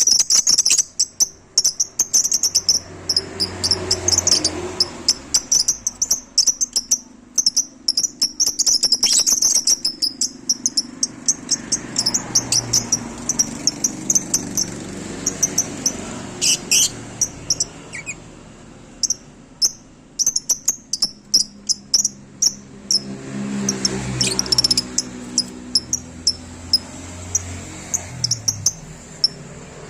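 Lovebirds chirping: a steady run of rapid, shrill, high-pitched chirps, at times in quick clusters. Under them a low rumble swells and fades three times.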